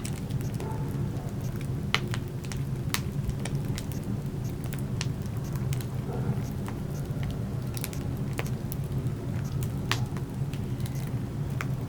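Burning wood crackling in a fireplace: irregular sharp pops and snaps over a steady low rumble, the loudest pop about two seconds in.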